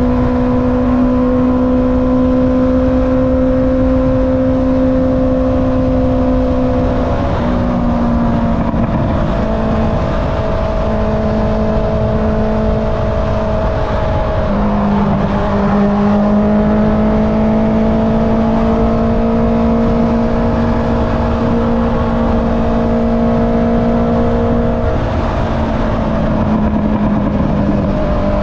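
Honda CB650R inline-four running through an Akrapovic exhaust while riding at a steady pace, with wind rush. The engine note holds steady, dropping in pitch three times, about a quarter of the way in, halfway and near the end.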